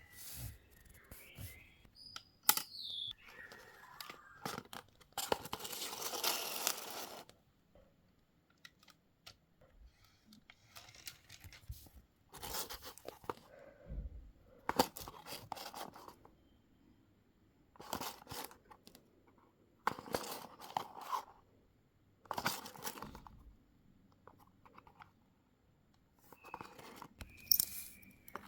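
Packaging being torn open and crinkled in repeated short bursts of a second or two, with quiet gaps between.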